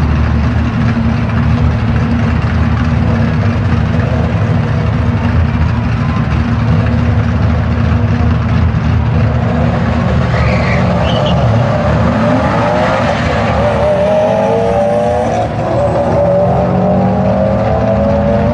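Drag car engines running with a loud, lumpy low rumble. A higher wavering tone comes in over it about twelve seconds in.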